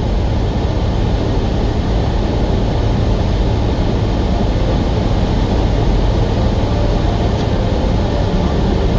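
Semi-truck under way at highway speed: the steady drone of its diesel engine mixed with tyre and road noise.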